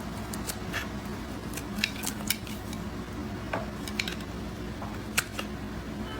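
A blade cutting into blocks of soap, giving irregular sharp, crisp clicks and crunches, a few each second. A steady low hum runs underneath.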